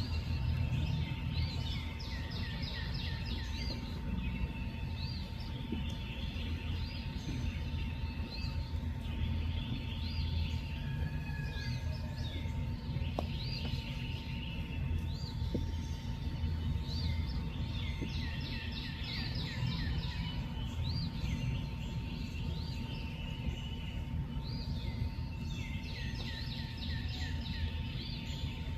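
Outdoor night ambience: bursts of rapid, high chirping calls from small animals, repeating every few seconds, over a steady low rumble and a faint constant tone.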